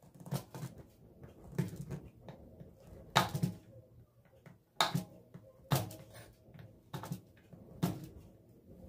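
Household handling noises: a series of irregular knocks and clatters, roughly one every second, as objects are set down and moved about.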